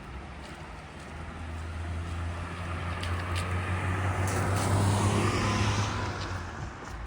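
A car drives past on a wet road, its engine hum and tyre hiss swelling to a peak about five seconds in, then fading.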